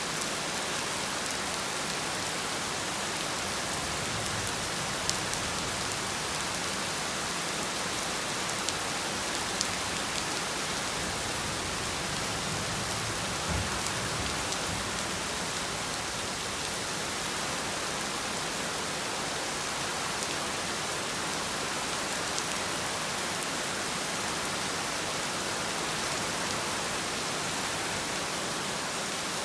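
Heavy rain falling steadily, an even hiss with a few sharper drop hits on surfaces now and then.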